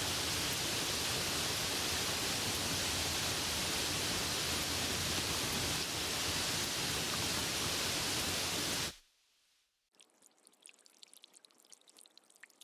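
Heavy rain falling in a steady, dense hiss that stops abruptly about nine seconds in. After a moment of near silence, faint scattered drips begin.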